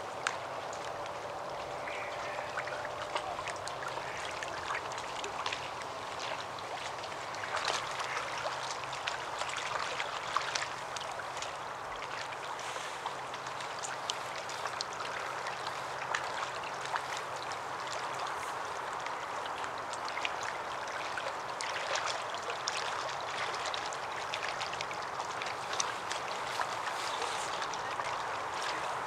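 Steady rushing outdoor background noise with many scattered faint ticks and crackles throughout.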